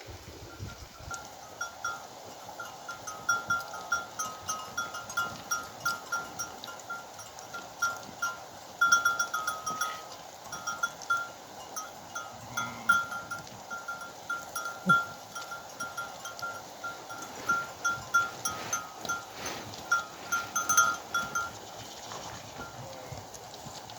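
Bells on a flock of sheep and goats clanking irregularly, several strikes a second, as the flock moves.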